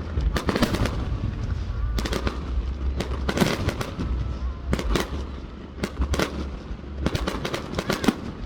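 Fireworks display going off: clusters of sharp bangs and crackles about once a second, over a steady low rumble.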